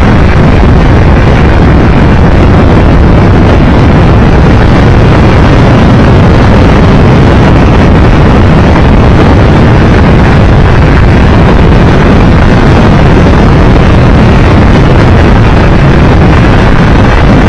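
Steady, loud wind roar on the microphone with a Triumph Tiger Explorer 1200 motorcycle's engine running underneath while riding at road speed.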